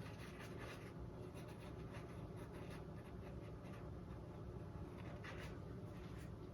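Faint brush strokes: a paintbrush dabbing and brushing acrylic paint onto a stretched canvas in short, irregular scratchy strokes, several a second.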